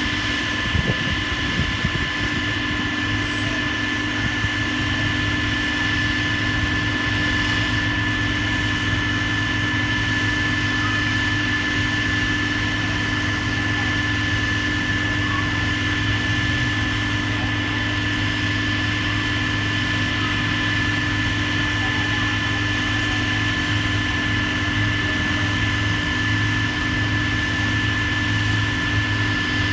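Heavy demolition machinery running steadily at an unchanging pitch, with a constant high whine over a low engine hum.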